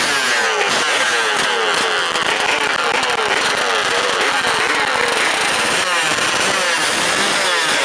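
Motorcycle engines revving hard, their pitch sweeping up and down over and over.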